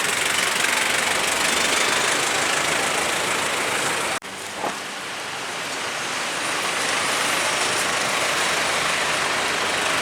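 A motor vehicle's engine running steadily, with a brief drop-out about four seconds in.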